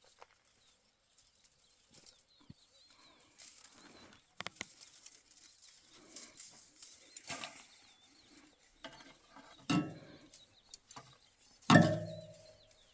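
Scattered knocks and clatter of hand building work, with a sharp knock about ten seconds in and a louder clang that rings on briefly near the end. Birds chirp faintly in the background.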